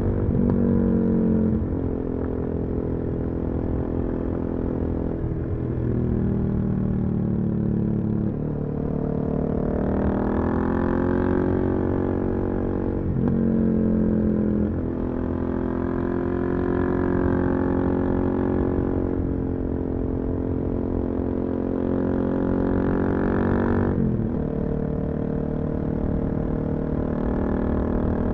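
Suzuki DR-Z400SM single-cylinder four-stroke engine with a full Yoshimura exhaust, heard from the rider's position while riding. The engine note climbs and drops several times as the throttle is worked and gears are shifted, with sharp pitch changes at about 1.5, 8, 13 and 24 seconds in.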